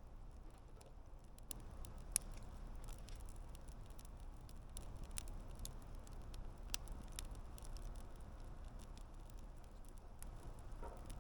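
Wood campfire burning, with scattered sharp crackles and pops over a low steady rumble; one louder pop about two seconds in.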